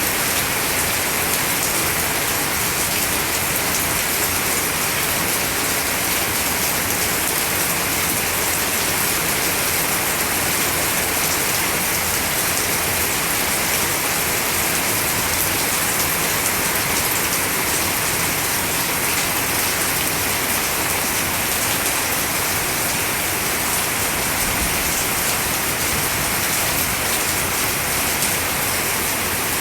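Steady rain falling on wet foliage, a continuous even hiss with the patter of drops.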